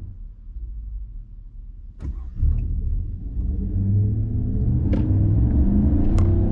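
In-cab sound of a Chevy Silverado's 5.3-litre V8 through a Corsa Sport cat-back exhaust: a low rumble that is quiet at first, then jumps up about two and a half seconds in as the truck accelerates, its pitch rising. A few sharp clicks come in between.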